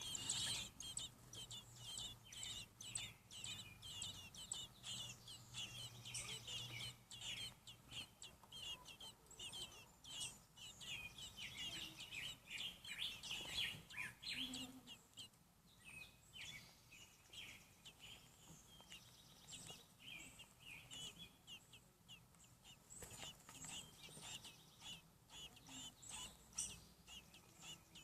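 Baby American robins in the nest peeping: rapid, high, thin peeps, thickest through the first half, thinning out after about fifteen seconds and picking up again near the end.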